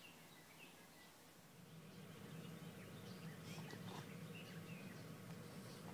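Near silence outdoors: faint, distant birds chirping now and then over a low steady hum that swells slightly about two seconds in.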